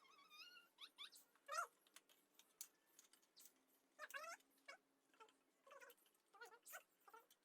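Faint animal calls: a series of short cries wavering in pitch, repeated several times.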